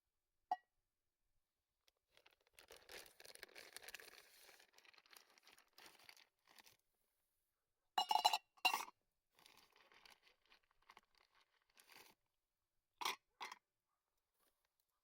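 Close crunching and rustling handling noises, followed by a few sharp clinks: two around the middle and two more near the end.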